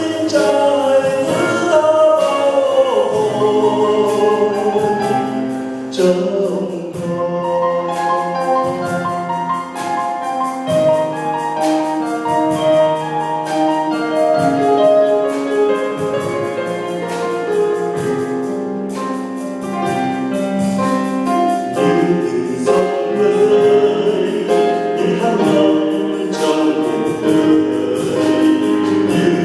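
A song with a singing voice over instrumental accompaniment.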